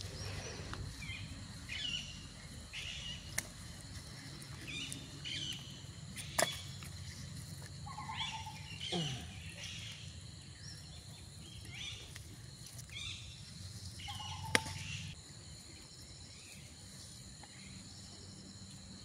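Birds calling repeatedly in short chirps over steady outdoor background noise, with three sharp clicks.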